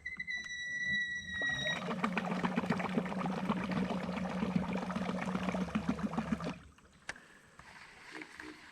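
Electric trolling motor running in very shallow water, its propeller churning and slapping the surface over a steady low hum for about five seconds before stopping. A steady high whistle-like tone sounds during the first two seconds.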